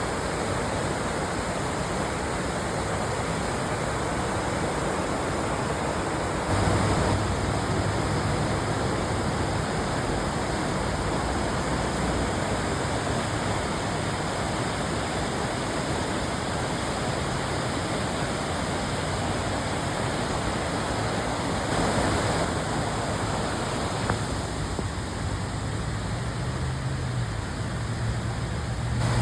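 Storm-swollen creek in flood, its fast water rushing in a steady roar, briefly louder twice, with a low rumble coming and going underneath.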